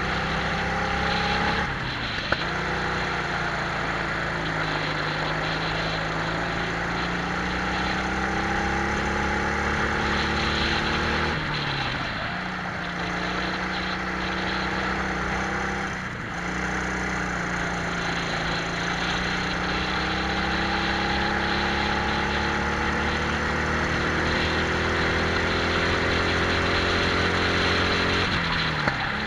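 Twin-engine Prokart's engines running under load on a lap. Their pitch climbs slowly along the straights and drops sharply each time the throttle is lifted for a corner, three times and again near the end, over a steady rushing noise.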